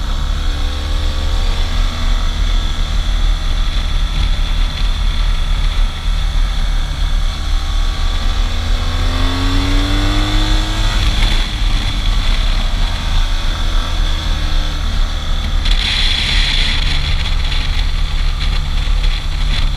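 Motorcycle engine running under way, with a steady low rumble; about halfway through, the engine note climbs as the bike accelerates. A short hiss comes about two-thirds of the way in.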